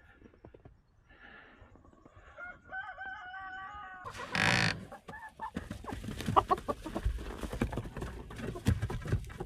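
Chickens calling: one drawn-out call about two seconds in, then short clucks. Through the second half there is a lot of knocking and rustling, which begins with a brief loud rush of noise.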